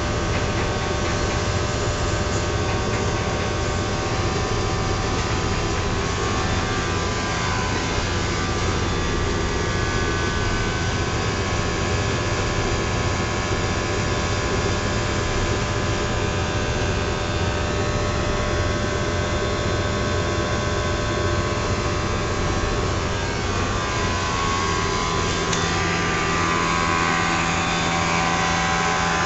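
A Triangle blower motor running steadily, a continuous whir carrying several steady tones over an even noise. A lower steady hum comes in near the end.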